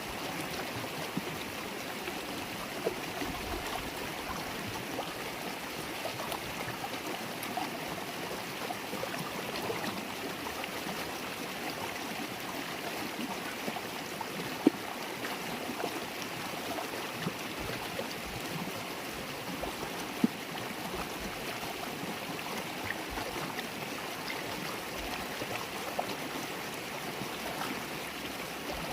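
River water babbling in a steady rush, dotted with small splashes and clicks. Two sharper ticks stand out, about halfway and two-thirds of the way through.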